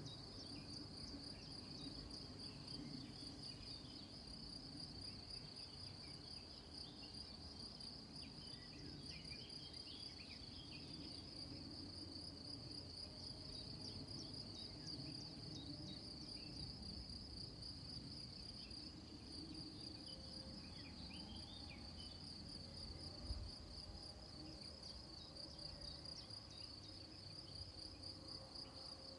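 Crickets chirring in a steady, fast-pulsing high chorus that runs on without a break.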